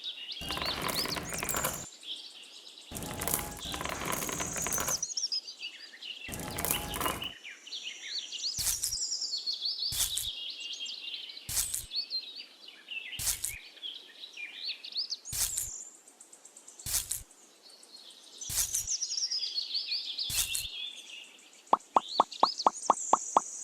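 Birds chirping in short rising and falling calls. Behind them come several noisy stretches lasting a second or two and sharp clicks about every second and a half, with a quick run of ticks near the end.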